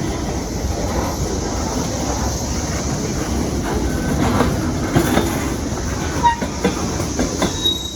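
A CSX manifest freight train's cars rolling past with a steady rumble, wheels clicking over the rail joints, and brief wheel squeals late on. Periodical cicadas drone steadily in the background.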